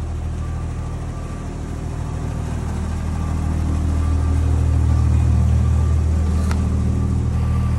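An engine running at a steady speed: a low, even hum that grows a little louder over the first few seconds, with one faint click about six and a half seconds in.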